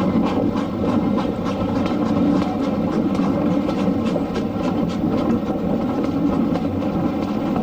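Heritage railway train running along the track: a steady rumble with many short clicks from the wheels on the rails.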